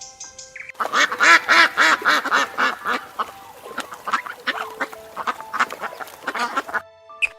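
Duck quacking: a rapid string of quacks starting about a second in, loudest at first and stopping shortly before the end.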